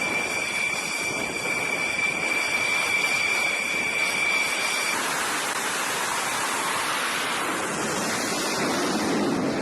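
Steady loud rushing noise, like wind and sea, with a high steady whistle-like tone that stops about halfway through.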